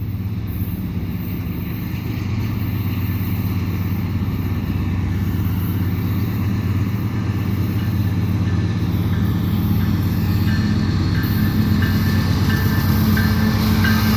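Diesel-electric freight locomotives, a GE AC4400CWM and AC4400CW, running under power at low speed: a steady deep engine drone that slowly grows louder as they approach.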